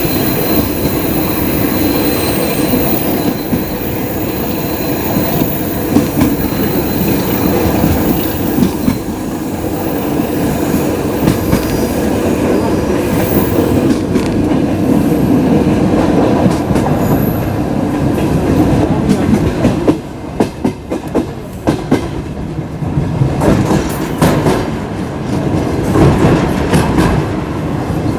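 Suburban passenger train hauled by a ChME3 diesel locomotive rolling in to a halt, wheels clattering over the rail joints with faint wheel squeals. From about twenty seconds in the rumble thins and the clatter becomes a run of sharp separate clicks.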